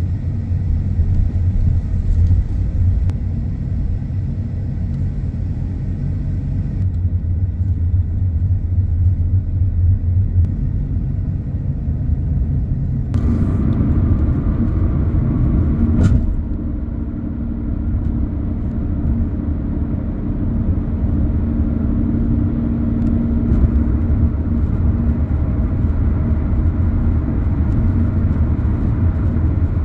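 A car driving along a road: steady low rumble of tyres and engine, with a slight change in its sound about thirteen seconds in.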